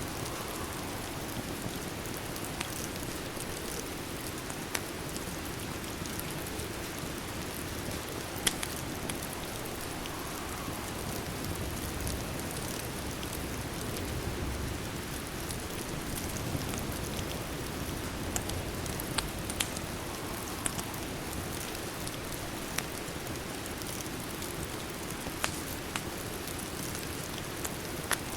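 Steady rain with a wood fire crackling: an even hiss of rainfall, broken every few seconds by a sharp single pop.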